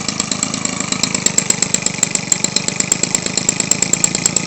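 Weed Eater Featherlite 21cc two-stroke engine idling steadily while turning a large model-airplane propeller, with a sharp beat repeating several times a second that becomes plainer about a second in.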